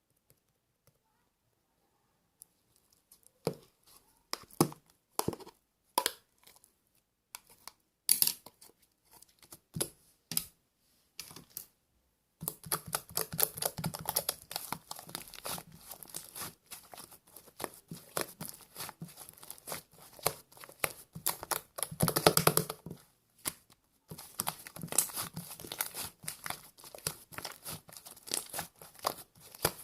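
Close-up crinkling and tearing handling sounds. Scattered single rustles and clicks give way about twelve seconds in to dense, continuous crackling, which breaks off briefly about two-thirds of the way through.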